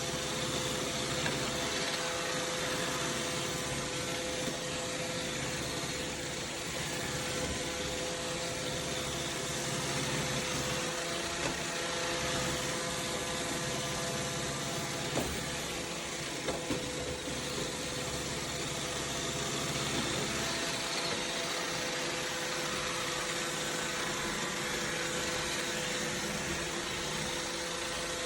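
Robot vacuum running: a steady motor hum with a constant whine and hiss, and a few light clicks about halfway through.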